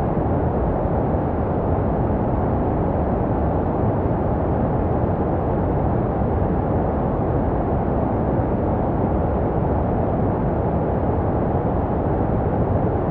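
Steady, deep white noise with the high end cut off, a muffled hiss with no tone or rhythm and no change in level. It is a synthetic sleep sound made to resemble what a baby hears in the womb.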